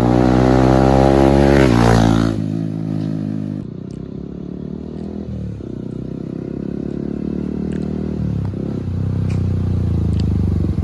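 Yamaha R15M's single-cylinder engine running through an aftermarket full-system exhaust: it is revved at the start, the note falls away about two seconds in, and it then runs on at a lower, steady engine speed.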